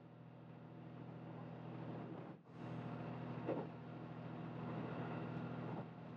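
Quiet, steady running hum of the Resort View Furusato, an HB-E300 series hybrid diesel railcar, heard from on board as it travels along the line. The hum breaks off for a moment about two and a half seconds in.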